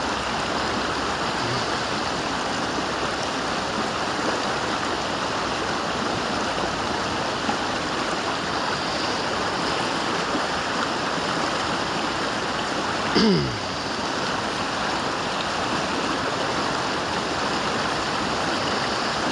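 River water rushing steadily in the current, with a short sound that drops quickly in pitch about two-thirds of the way through.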